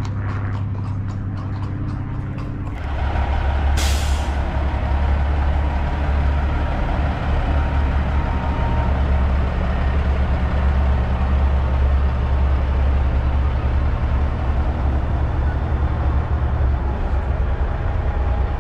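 Semi truck diesel engine running, getting louder about three seconds in, with a short sharp hiss of air brakes releasing about a second later.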